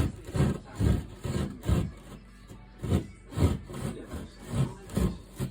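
Drywall jab saw cutting through sheetrock by hand, rasping back and forth at about two strokes a second with a short pause partway through.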